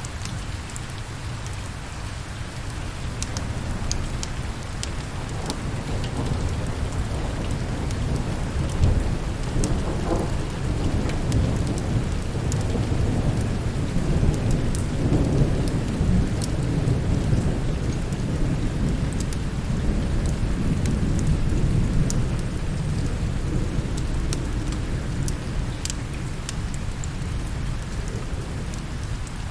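Steady heavy rain with a long rolling thunder rumble that builds a few seconds in, peaks through the middle and eases off near the end, with scattered sharp crackles on top.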